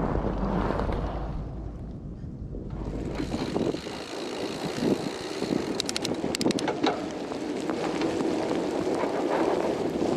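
Strong blizzard wind buffeting the microphone, giving way about three seconds in to the steady noise of a fat bike riding off, with a few sharp clicks around the middle.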